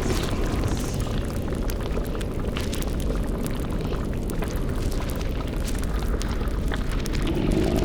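Layered sound-effect ambience: a steady deep rumble under dense bubbling and crackling pops, as of a boiling cauldron and a fire.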